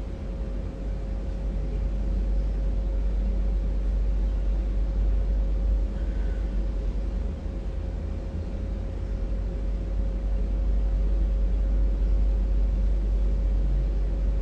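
Steady low rumble with a faint constant hum in a large mosque hall, with no voice over it.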